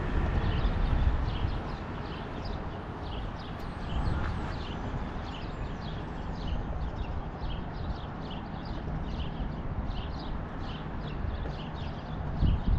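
Wind rumble on the microphone of a moving Tomos Silver Bullet moped, over a faint light ticking that repeats two or three times a second.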